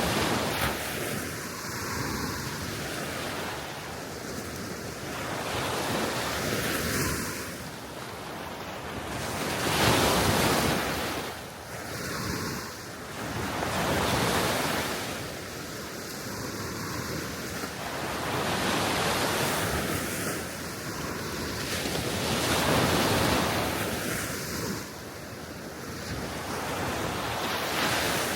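Small sea waves washing onto the shore, swelling and fading every few seconds, with wind on the microphone.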